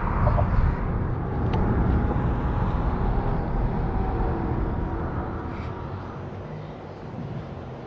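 Motor vehicle noise, a low steady rumble that fades gradually over the last few seconds.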